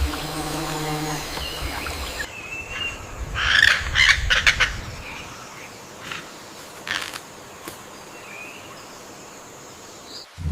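Forest ambience with bird calls and chirps, busiest about four seconds in, over a faint steady high tone.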